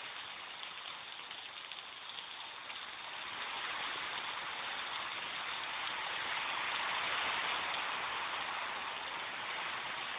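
Heavy rain pouring down in a steady hiss, swelling louder a few seconds in.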